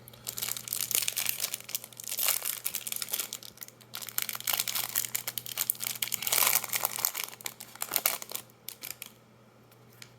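Foil wrapper of a Magic: The Gathering booster pack crinkling as it is torn open and handled, in dense crackles that die down near the end.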